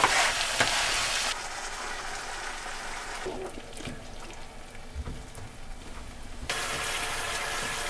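Chopped tomatoes and their juice sizzling in olive oil with softened onion and garlic in a frying pan, stirred with a silicone spatula. The sizzle eases off for a few seconds in the middle, where a few soft knocks of stirring come through, and picks up again near the end.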